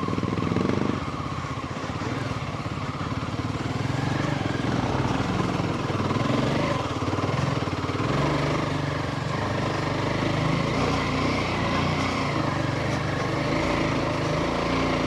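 Royal Enfield Himalayan 450's single-cylinder engine running as the motorcycle is ridden, its note shifting up and down with the throttle.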